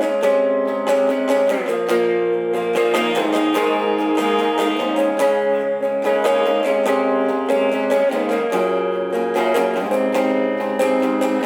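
Acoustic guitar strumming chords in an instrumental passage, changing chord every second or two.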